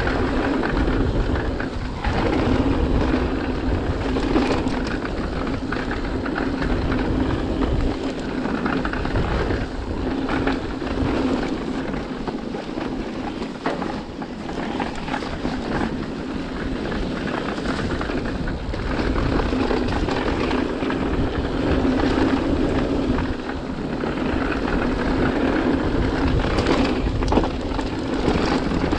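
Mountain bike descending a wet trail: a steady rush of wind across the camera's microphone over tyre noise on wet dirt, with scattered small knocks and rattles from the bike.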